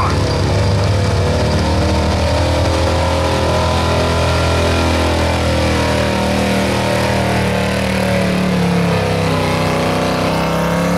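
1976 Ford F-350 Super Camper Special's stock gasoline engine running at full throttle under heavy load while pulling a weight sled. The engine note holds steady and loud, its pitch dipping slightly near the end as the load builds.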